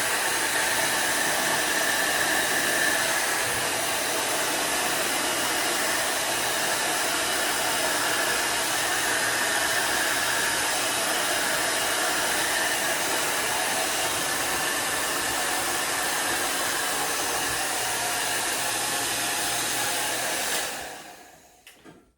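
Hair dryer blowing steadily while drying a beard, switched off near the end and winding down within about a second.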